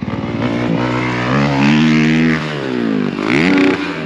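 Motocross bike engine revving under throttle: it climbs in pitch and holds high, drops off about two and a half seconds in, then revs up sharply again near the end.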